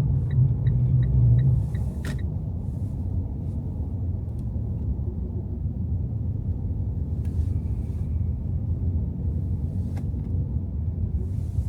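Car driving on a snowy city street: a steady low rumble of engine and road noise. For the first two seconds a regular ticking runs at about three ticks a second, then it stops with a single click.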